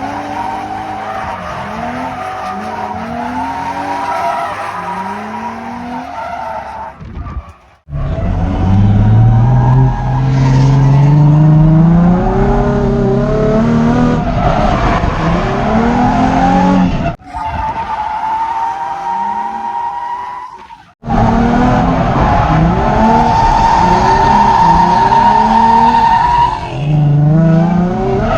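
Drift cars sliding sideways, engines revving up and down under a steady high tyre squeal. The sound breaks off abruptly three times as one clip cuts to the next.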